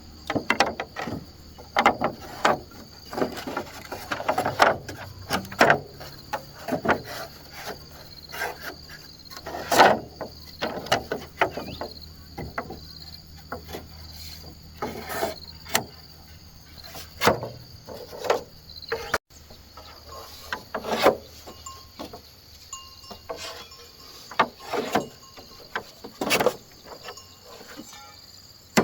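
Irregular knocks and taps of bamboo being worked by hand, some sharp and loud, others light clatter. A steady high insect drone runs underneath.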